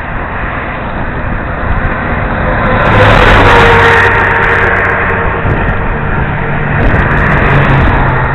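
Wind rushing over a helmet-mounted camera's microphone while cycling, swelling loudest about three to four seconds in, with a faint low hum underneath.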